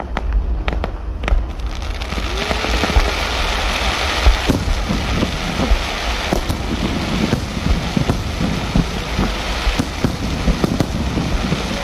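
Fireworks display: a dense, rain-like crackling and hissing from fountains and bursting shells, peppered with many sharp pops over a steady low rumble.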